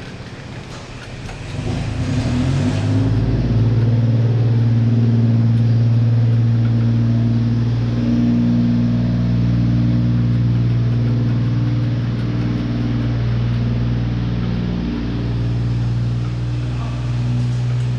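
A motor spinning up, rising in pitch and loudness over the first few seconds, then running with a steady low hum.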